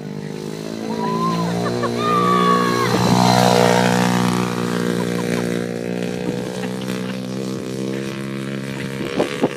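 Small Yamaha dirt bike engine running at a steady, even pitch. It grows louder over the first few seconds as the bike comes closer, then slowly fades as it moves away.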